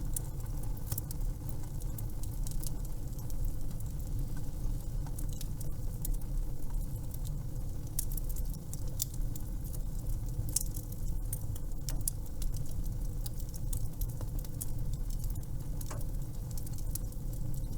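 Fireplace crackling: a wood fire with irregular sharp snaps and pops over a steady low rumble.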